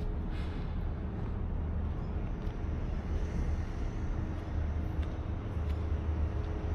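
Outdoor city ambience: a steady low rumble with a faint hum and a few light clicks, with no one sound standing out.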